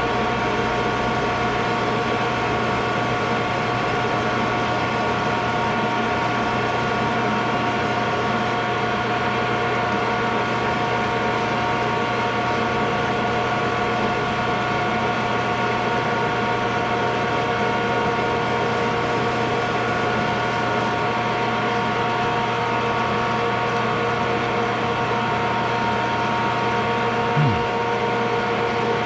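Metal lathe running steadily, its motor and gearing giving a constant hum and whine, while the face of an engine valve is being turned. A brief short sound comes about 27 seconds in.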